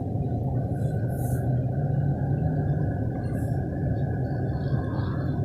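Wind rushing over the microphone during a BMX bike ride, a steady low rumble, with a faint high steady whine coming in about half a second in.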